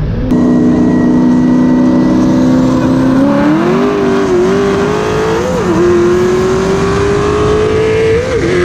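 Twin-turbo Ford Mustang 5.0 V8 holding a steady cruise, then going to full throttle about three seconds in. Its note climbs in pitch and dips briefly at three quick upshifts, over wind and road noise.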